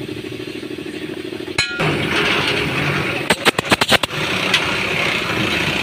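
A truck's diesel engine is running with a steady low throb, broken briefly a little past a second in. Around the middle, a quick run of about seven sharp knocks sounds, then one more shortly after.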